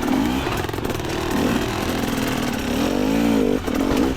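Two-stroke dirt bike engine revving up and down as the bike is ridden over rough trail, with a strong rise and fall in revs about three seconds in.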